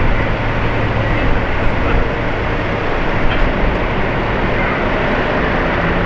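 Jet airliner engines running loud and steady, a dense even noise with a low hum beneath.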